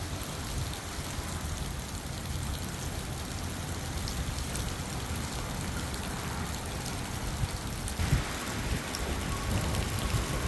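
Hail and rain pelting down steadily on the ground and coop, a dense hiss with scattered sharp ticks of hailstones striking; the hiss grows brighter about eight seconds in.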